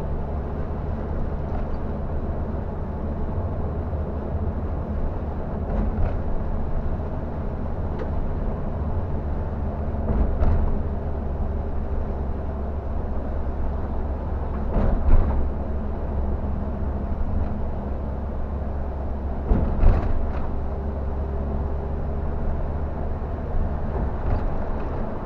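Scania K360 bus's diesel engine running steadily under way, a low drone, with several brief knocks and rattles, the loudest about fifteen and twenty seconds in.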